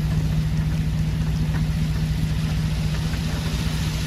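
Steady low hum of an idling car engine over heavy rain falling on a wet road.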